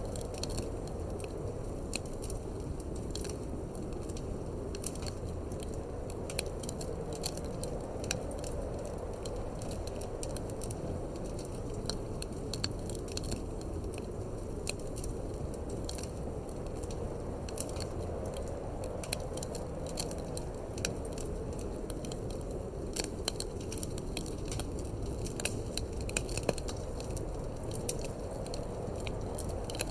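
Wood fire in a fireplace crackling, with frequent irregular sharp pops, over a steady low rush of wind.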